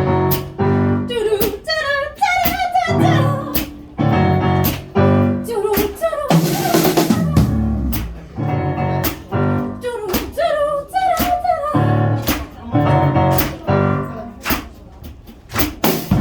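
Live jazz-funk band playing: a drum kit with sharp snare hits keeps a steady groove under a bass line, with a melodic lead line on top.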